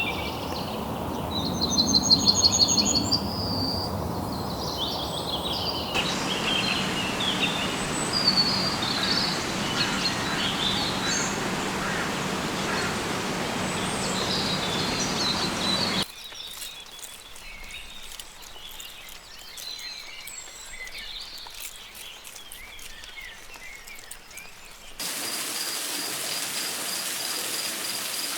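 Amazon rainforest ambience that changes abruptly several times: birds chirping and calling, with a fast trill early on, over a steady background hiss. Then a quieter stretch with many sharp clicks. Near the end comes a steady, rapidly pulsing high insect call.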